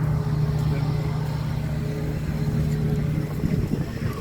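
An engine running steadily at an even speed, giving a constant low hum.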